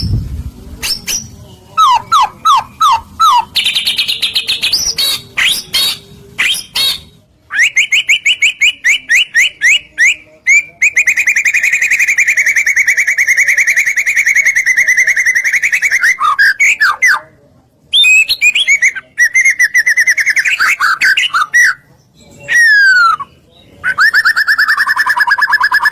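White-rumped shama (murai batu) in full, loud song: quick series of repeated notes, then a long fast trill held for several seconds, a few falling whistled sweeps, and another fast trill near the end.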